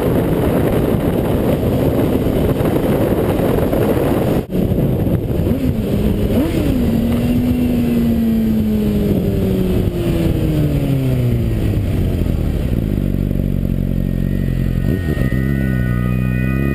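Suzuki GSX-R600 inline-four with a Yoshimura TRC slip-on exhaust, first heard at speed under heavy wind rush. Then come two quick throttle blips, and the engine note falls steadily as the bike slows on engine braking. Organ music comes in near the end.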